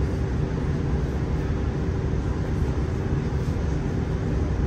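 Steady running noise of a Class 165 diesel multiple unit heard from inside a carriage: an even low rumble with a constant hum.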